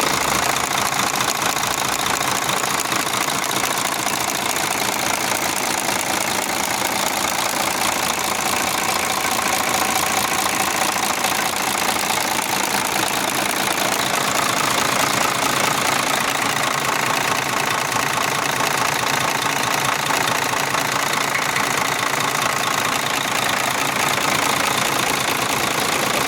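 Mercedes-Benz truck diesel engine running steadily at idle.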